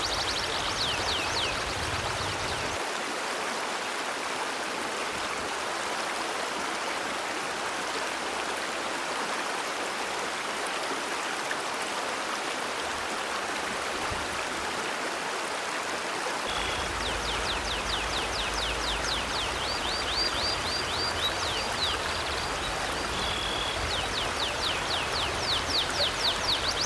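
Steady rushing of a river stream flowing. Bird chirping in rapid series of high downward-sliding notes rises over it right at the start and again through the second half.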